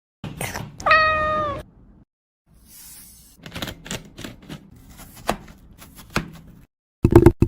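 A cat meows once about a second in, a single short call that dips slightly in pitch at its end. Scattered light taps and clicks follow, with a louder knock near the end.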